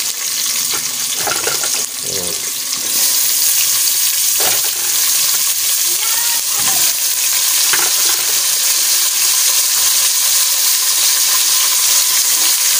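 Raw chicken feet sizzling in hot oil with sautéed ginger, garlic and onion in an open pressure cooker pot. A steady frying hiss that grows louder about three seconds in, with a few faint knocks.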